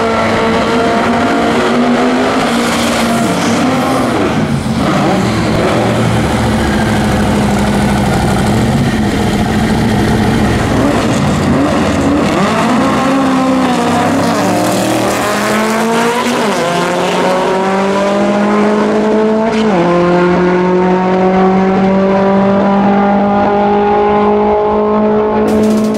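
Twin-turbocharged Chevrolet Corvette C3 engine running hard at high revs. Its pitch wavers, then climbs steadily, drops suddenly at a gear change about twenty seconds in, and climbs again.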